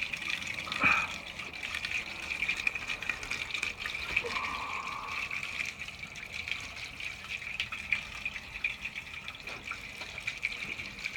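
Water from sinks running above, heard from below the floor as a steady trickling flow through the sink drain and supply pipes, with a few faint knocks.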